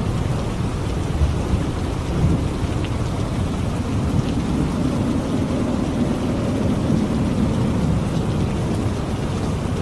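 Steady rain with a continuous low thunder rumble beneath it, the rumble swelling about midway through.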